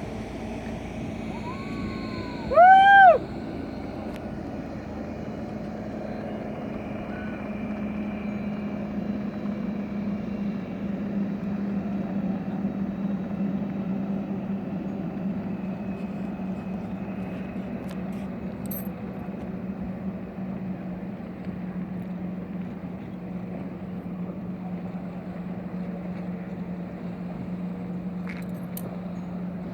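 Motorboat engine running steadily with a constant low hum. About three seconds in comes a short, loud, pitched tone that rises and falls.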